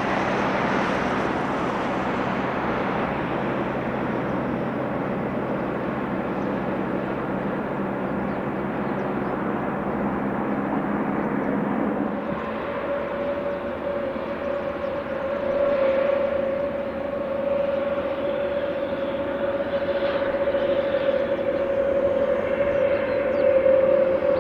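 Turbine aircraft engines running: a broad rushing noise, joined about halfway by a steady whine that grows louder toward the end.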